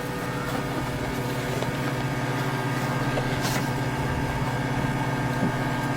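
Steady machine hum with a low droning tone, and a few faint clicks.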